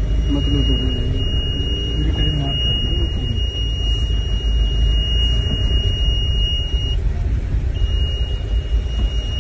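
A vehicle's engine running with a steady low rumble, under a thin, steady high-pitched tone that breaks off for under a second about seven seconds in. Faint low voices are heard in the first few seconds.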